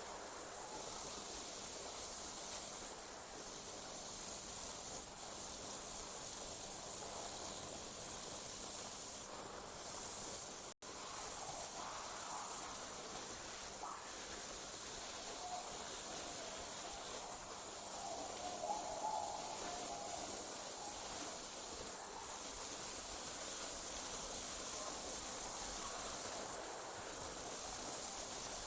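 Crickets chirring in a continuous high-pitched trill, with short breaks every few seconds, forming a night insect chorus. The sound cuts out for an instant near the middle.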